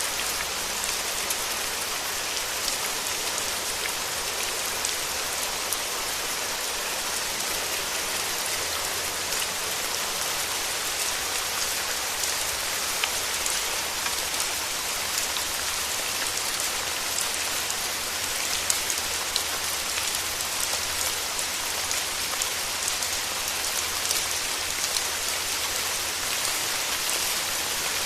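Steady rain falling, with single drops now and then hitting sharply close by.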